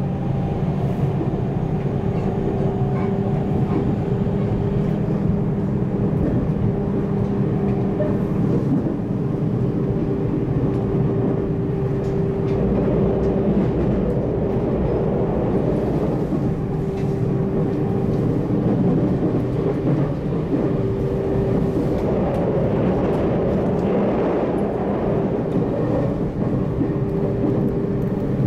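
Running noise inside a JR Central 313 series 8000 subseries electric train at steady speed: a constant rumble with a steady hum over it and a few faint wheel clicks.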